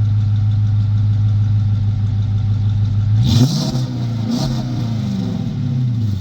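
2011 Dodge Charger Pursuit's engine idling through its muffler-deleted exhaust, then blipped once about three seconds in, the pitch rising sharply with a rasp and falling back to idle near the end.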